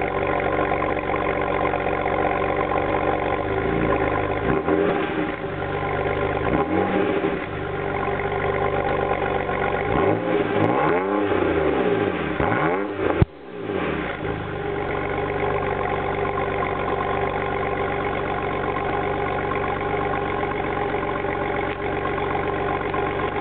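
BMW engine through a performance exhaust idling steadily, blipped a few times: short revs about 4 and 6 seconds in, then a run of quicker revs that rise and fall, with a single sharp crack near the end of them, before it settles back to idle.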